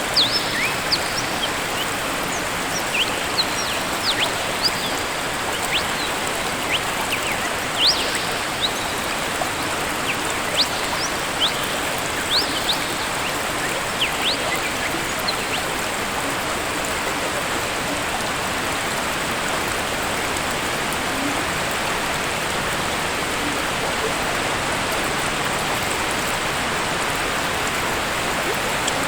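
Steady rushing of a waterfall. Scattered brief, high-pitched sounds stand out over it during the first half.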